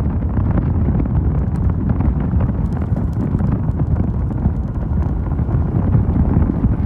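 Wind rumbling steadily on the microphone of a moving Mondial Fury motorcycle, with the engine running underneath.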